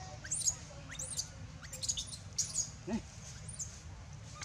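Birds chirping: a run of short, high, arched chirps every half second or so, with one short rising squeak about three seconds in.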